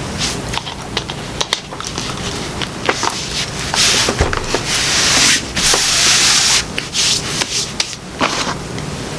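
Hands handling ice in a drink container: scattered clicks and knocks, with a loud hissing rush lasting a few seconds in the middle.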